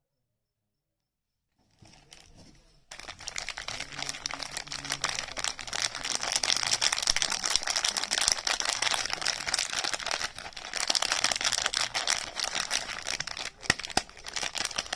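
Soap packaging wrap being handled and unwrapped, crinkling and tearing in a dense crackle. It starts faintly about two seconds in and becomes loud about a second later.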